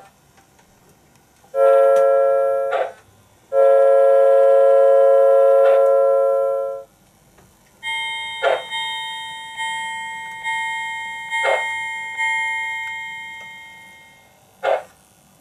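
Sound system of an MTH RailKing Pennsylvania 6-8-6 steam turbine model locomotive: two whistle blasts, the second longer, then the locomotive bell ringing about once a second for several seconds before fading out. Sharp clicks at the start and near the end.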